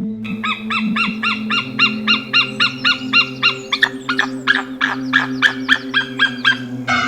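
A bird calling in a fast, evenly repeated series, about four or five calls a second, with the notes becoming sharper and shorter about halfway through.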